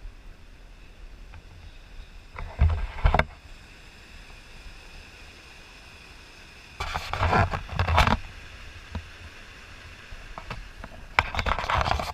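Canoe paddling: three bursts of water splashing and knocking, a few seconds apart, over a faint steady background.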